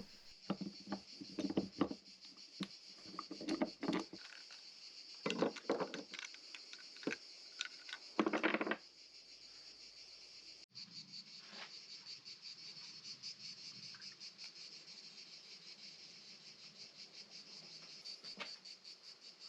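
Crickets chirping steadily in a fast pulsing trill. Over the first half, irregular clicks, knocks and clinks of something being handled come and go, then stop about nine seconds in.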